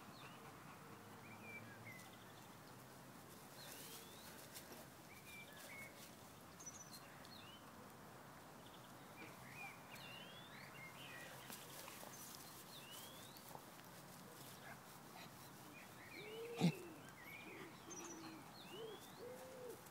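Small birds chirping on and off, short rising and falling calls over quiet outdoor ambience. About three-quarters of the way through comes a single short, sharp sound, the loudest moment, and a few brief lower cries follow near the end.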